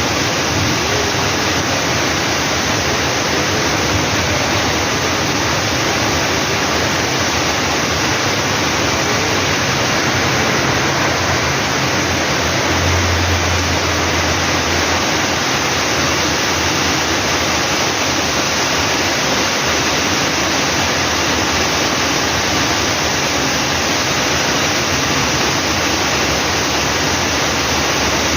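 Heavy rain pouring down in a steady, loud hiss, with a low rumble for a couple of seconds about halfway through.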